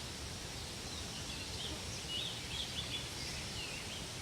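A bird chirping faintly several times in a short series, over steady outdoor background noise.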